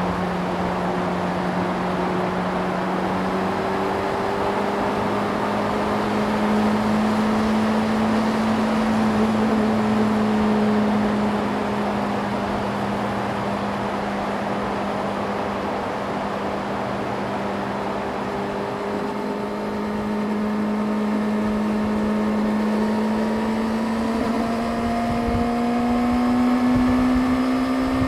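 Yamaha YZF-R6's inline-four engine running at a steady cruise, its pitch drifting slowly up and down with the throttle, over a steady rush of wind and road noise.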